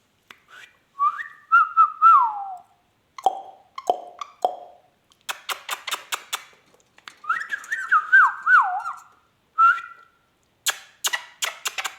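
Indian ringneck parrot whistling: two warbling whistle phrases that waver up and down in pitch, the second one longer and near the middle. Between them come a few short falling calls and runs of rapid sharp clicks.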